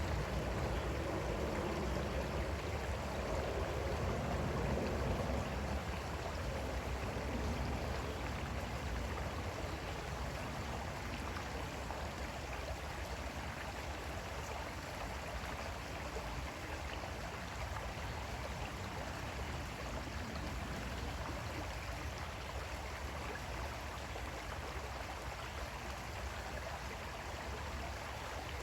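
Creek water flowing steadily over stones, a continuous babbling rush, a little fuller in the first few seconds.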